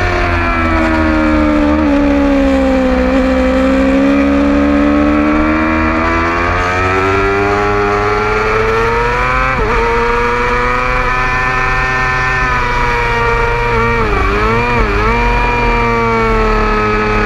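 A 600cc racing motorcycle's engine at high revs on track: its pitch falls over the first few seconds, climbs steadily to a brief break near ten seconds, then holds high, with a quick run of dips and rises around fourteen to fifteen seconds. A steady low wind rumble on the bike-mounted camera runs under it.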